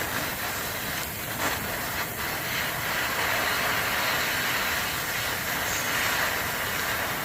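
Gas torch flame hissing steadily as it heats a seized nut on a bolt head to melt it off, with a couple of brief dips in the hiss in the first two seconds.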